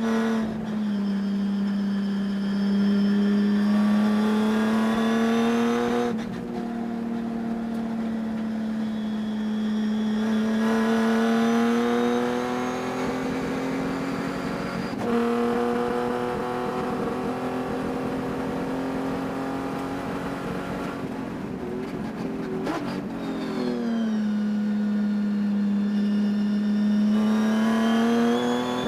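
Race engine heard onboard under full throttle: its pitch climbs slowly along the straights and drops sharply several times as it comes off the throttle, then climbs again. Through the race the motor has a high-RPM miss that the owner could not cure.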